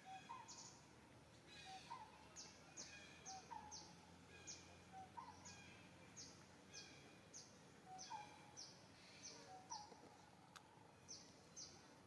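Faint birdsong in the background: a short, high, sharply falling note repeated about twice a second, and a lower two-note call repeated every second or two.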